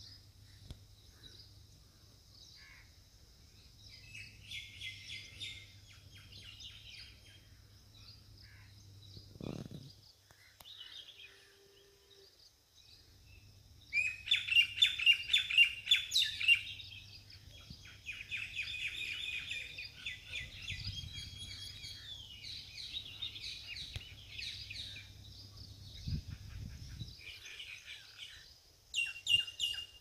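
Birds chirping and calling, in short bouts at first and then in loud, rapid runs from about halfway through, over a steady high-pitched hiss.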